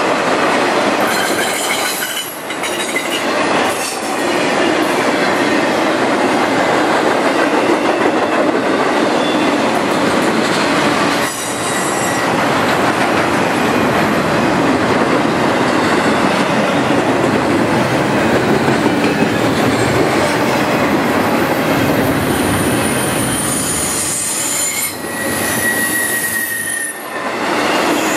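Intermodal freight cars rolling past: a loud, steady rumble and rattle of steel wheels on the rails. Brief high wheel squeals come in near the end.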